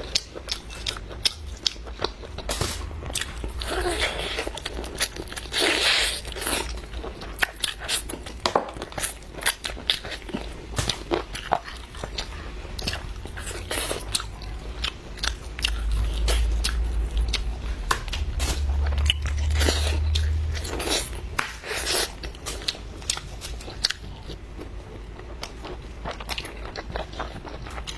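Close-miked eating: a person biting and chewing, with many irregular crunching clicks throughout. A low rumble comes in for a few seconds past the middle.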